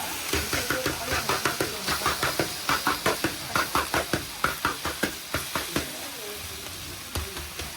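Metal spatula striking and scraping a large flat frying pan in quick rhythmic strokes, about three to four a second, over the sizzle of frying, as sanxian doupi is chopped up on the pan. The strokes stop for about a second near the end, then start again.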